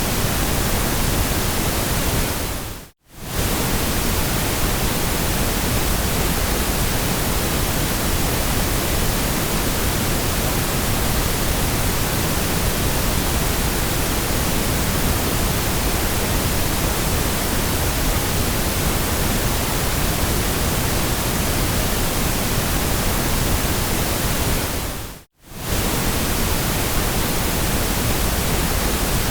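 Steady white noise for soothing a baby: an even hiss spread across all pitches. It briefly fades out and straight back in twice, about three seconds in and again near the end.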